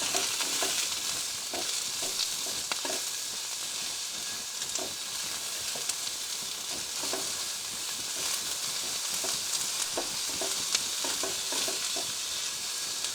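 Sliced onions sizzling in hot sesame oil with ginger and green chili, being stirred, with short scrapes and taps against the pan at irregular intervals.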